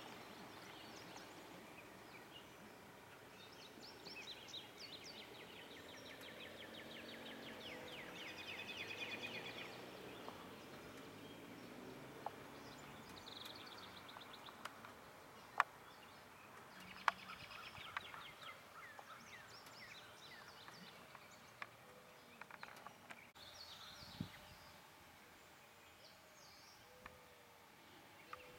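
Faint outdoor ambience with songbirds singing: quick trilled phrases come and go, and a few sharp chips stand out about halfway through.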